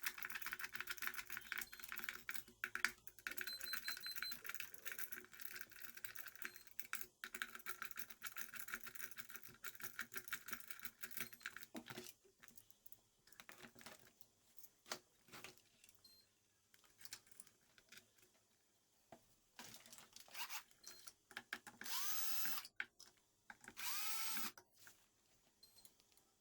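Hoverboard hub motor being run without its controller, giving a fast crackling, rattling whir for about twelve seconds. It then falls to scattered clicks, with two short whirring bursts near the end.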